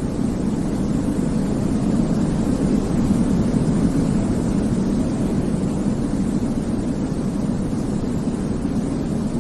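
Steady, deep white noise for baby sleep: a constant low rumbling hiss, heaviest in the bass, with no changes in level or pitch.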